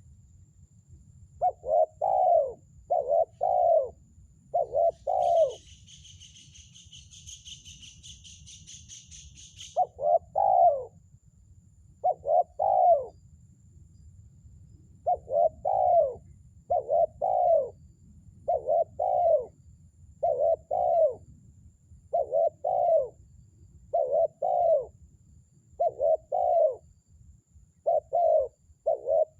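Spotted dove (terkukur) cooing: short two-part coo notes repeated every second or two, pausing briefly before resuming. From about 5 to 10 seconds in, a rapid high-pitched buzzing trill sounds alongside the coos.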